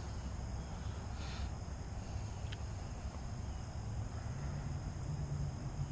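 Quiet outdoor background: a steady low rumble with faint high-pitched steady tones, and a low hum that comes in about four seconds in.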